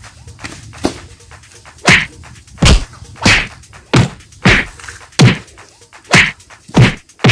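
A rapid series of loud, sharp impact sound effects, about nine in a row, one every two-thirds of a second or so, starting about two seconds in, each dying away quickly.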